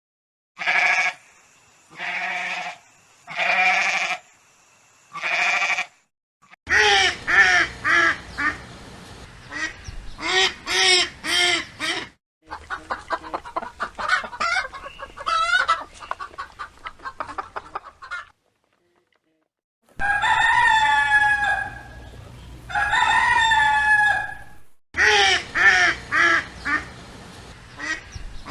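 Chickens calling in a string of separate clips: hens clucking and cackling in quick runs, and a rooster crowing twice in long calls, with short silent gaps between clips.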